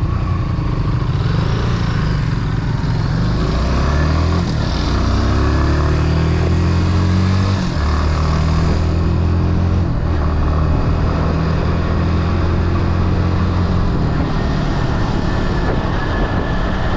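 Motorcycle engine accelerating through the gears, its pitch climbing and then dropping at two upshifts, one about halfway through and another a couple of seconds later, before holding steady.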